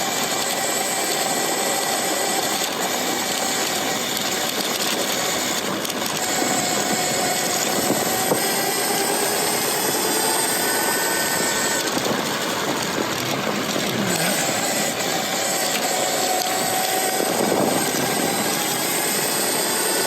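Electric e-bike ridden at speed: a steady rush of wind noise with the faint whine of its Lightning Rods mid-drive motor drifting up and down in pitch as the speed changes.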